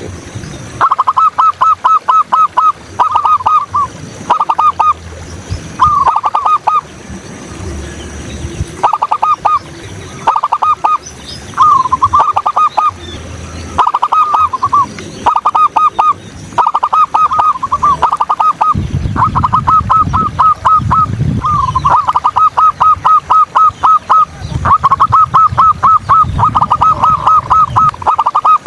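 Zebra doves (local perkutut) cooing: loud bouts of rapid, short staccato coos, several a second, broken by brief pauses. A low rumble comes in partway through, and faint chirps from other birds sit behind the coos.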